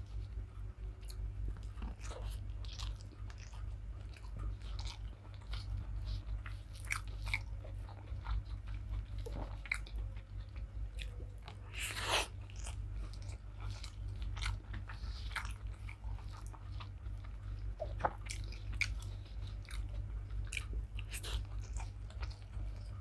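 Close-up chewing of a person eating rice and fried vegetables, with many small wet clicks and occasional soft crunches. A steady low hum runs underneath.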